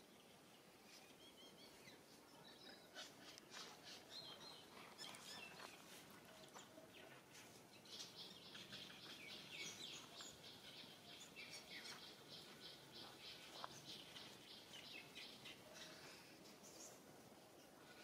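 Faint outdoor ambience with small birds chirping, including a rapid run of high, repeated chirps in the middle.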